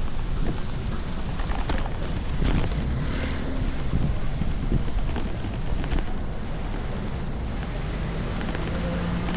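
Strong wind buffeting the microphone, a steady low rumble, with a few brief knocks of street noise.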